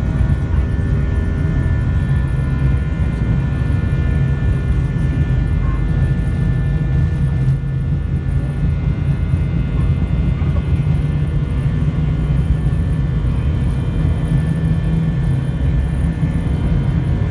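Airbus A320 jet engines at takeoff thrust, heard inside the passenger cabin: a loud, steady rumble with several steady whining tones over it.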